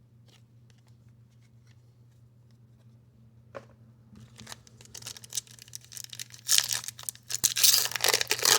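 Trading card pack wrapper being crinkled and torn: faint clicks at first, then crackling handling that grows from about halfway through and is loudest near the end.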